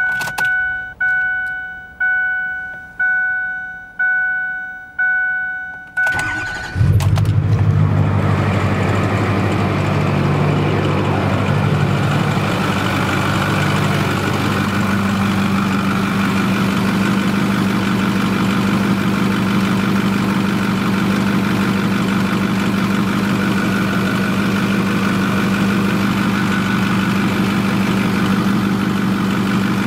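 An electronic chime beeps six times, about once a second, then a Ford 6.4L Power Stroke V8 turbo-diesel cranks and catches about six and a half seconds in and settles into a steady idle.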